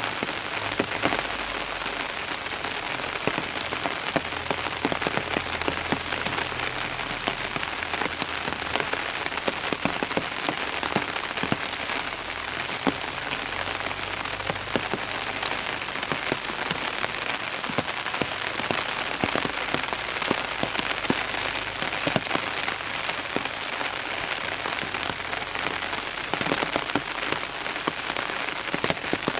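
Steady rain falling, with many separate drops ticking sharply on a surface throughout.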